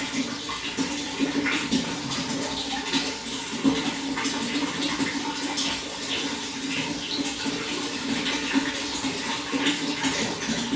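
Running water flowing and splashing steadily, with constant small trickles and splashes over a low steady rush.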